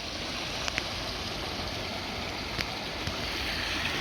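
Brook water running over stones, a steady rushing babble with a couple of faint clicks.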